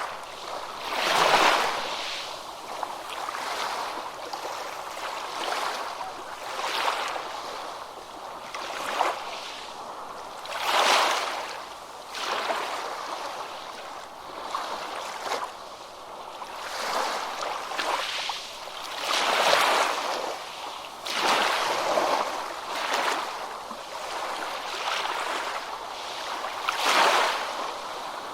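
Ocean surf on a beach: waves breaking and washing in as a continuous rushing hiss that swells and ebbs every few seconds, with a few larger waves standing out.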